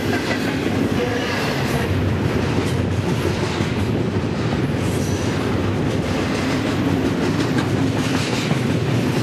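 Double-stack container well cars of an intermodal freight train passing close by at speed: a steady rumble of steel wheels on the rails, with faint repeated clicks running through it.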